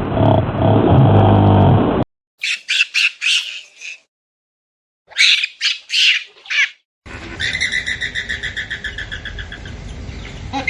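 A large animal's low grunting call cuts off about two seconds in. Two quick runs of loud bird squawks follow, each of several harsh notes, with a silence between them. Then comes a rapid pulsing chirping call at about four beats a second.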